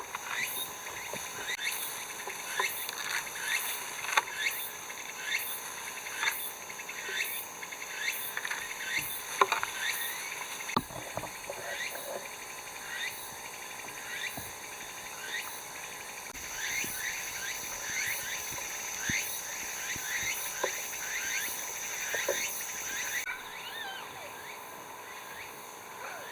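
A chorus of calling animals: short chirps falling in pitch repeat about twice a second over steady high tones and fast high ticks.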